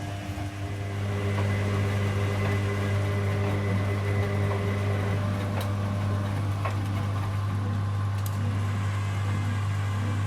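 Washing machine running mid-wash: a steady low motor hum with fainter whining tones above it, and a few faint clicks.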